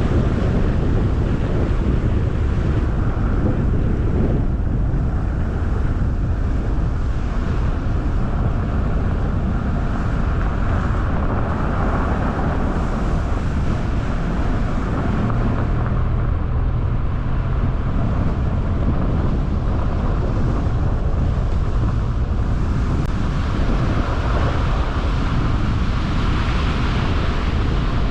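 A car driving at steady speed: constant tyre, road and wind noise, heaviest in the low end, with no change in pace.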